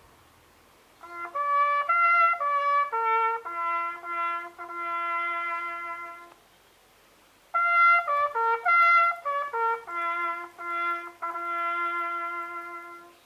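A solo bugle call on a brass horn, played in two phrases of clear, separate notes from the bugle's few natural notes, each phrase ending on a long held note, with a short pause between them; the ceremonial bugle call of a Remembrance service.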